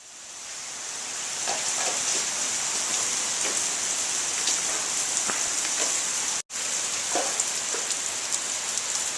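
Steady rain falling, an even hiss with faint scattered drip ticks. It fades in at the start and cuts out for a moment about six and a half seconds in.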